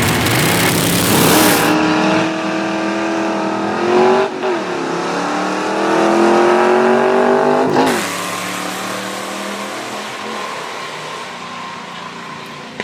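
A 1969 Dodge Super Bee and a 1991 Ford Mustang GT launching in a drag race, engines revving hard and climbing in pitch. They shift gears twice, about four and eight seconds in, then fade away down the strip.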